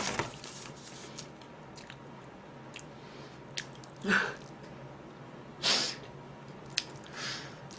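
A person chewing a mouthful of soft red-velvet snack, with a few small clicks from the mouth and a couple of short breathy exhales through the nose.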